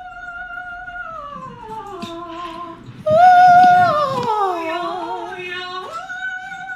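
A woman singing a wordless vocal warm-up. She holds a high note and slides down about an octave, then sings a louder high note that slides down again. Near the end she jumps back up to a held high note.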